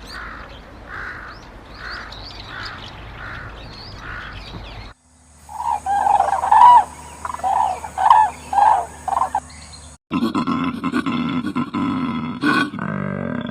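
Animal calls from three different clips cut together: first a run of evenly spaced repeated calls, then about five seconds in a louder series of short calls, then about ten seconds in a harsher, rougher call.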